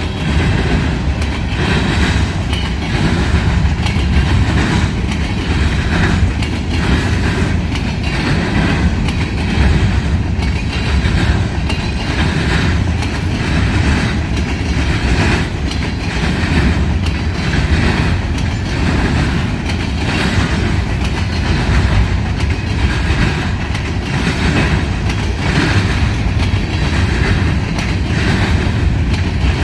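Freight train rolling past close by: a steady rumble of the cars, with wheels clacking over the rail joints in a regular rhythm about once a second.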